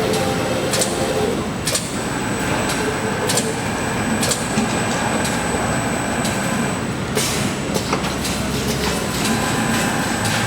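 Electric-motor production machinery running: a loud, steady mechanical din with irregular sharp clicks and clacks and a thin high whine.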